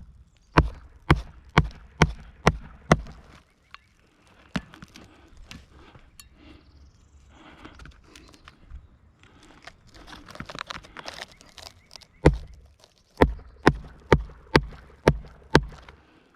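Roofing hatchet driving nails into asphalt shingles: a run of quick hammer strikes about two a second, a pause with rustling of the shingle, then another run of strikes near the end.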